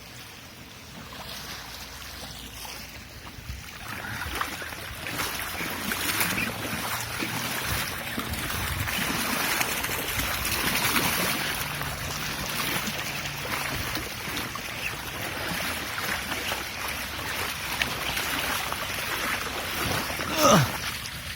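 Floodwater splashing and sloshing, louder and choppier from about four seconds in. Near the end a brief falling whistle-like tone stands out as the loudest moment.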